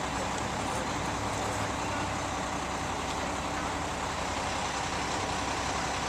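A vehicle engine idling steadily, with street traffic noise.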